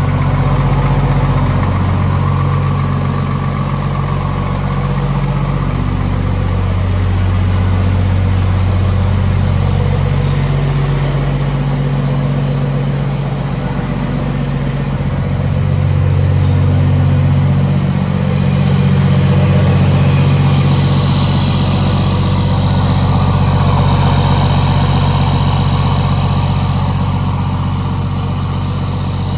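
New Scania truck's diesel engine running through an exhaust diffuser: a deep, steady exhaust note whose low tones swell and ease a few times.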